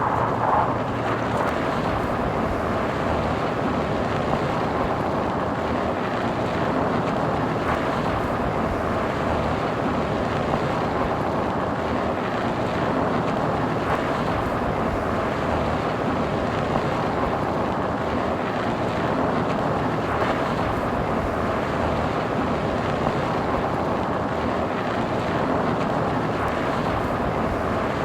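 Steady road noise of a car driving: tyres and engine running at an even pace, with some wind noise.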